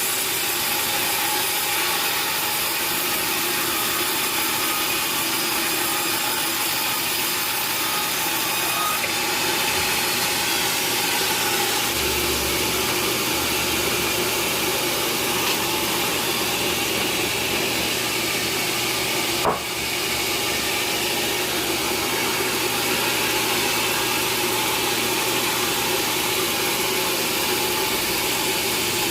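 Sawmill saw running steadily through wood, a dense, unbroken cutting noise. A single sharp knock comes about two-thirds of the way through.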